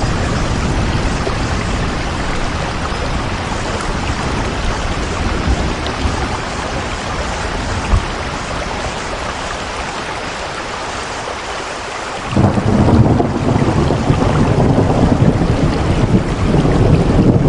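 Steady heavy rain. About twelve seconds in, a deep rumble comes in suddenly and carries on underneath the rain.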